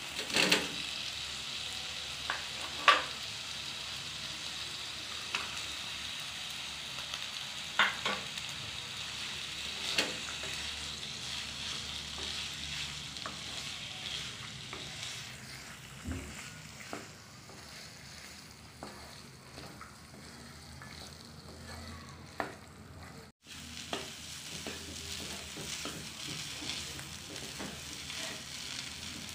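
Boiled potatoes and peas sizzling in oil and spice paste in a non-stick kadai while being stirred with a wooden spatula, which knocks and scrapes against the pan now and then. The sizzle thins out about halfway through.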